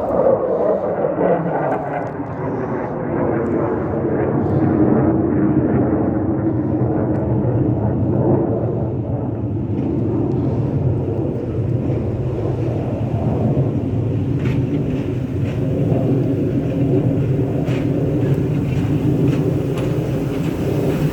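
ChME3 shunting locomotive's six-cylinder diesel engine running with a loud, steady drone; its pitch slides down over the first couple of seconds.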